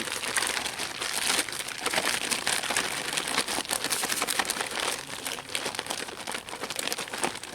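A closed bag of cubed raw chicken breast, strawberry Jell-O powder, water and minced garlic being shaken to coat the chicken for catfish bait, the bag crinkling continuously.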